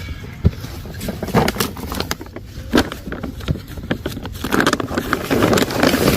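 Digging in garden soil by hand to plant bulbs: irregular scrapes, crunches and knocks of a digging tool working into the earth, busiest in the second half.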